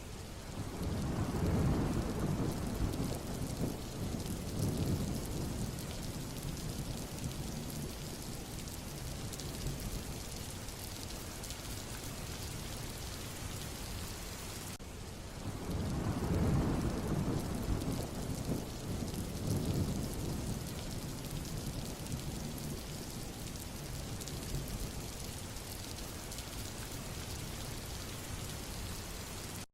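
Thunderstorm: steady rain hiss with rolling thunder, one long rumble starting about a second in and another about sixteen seconds in.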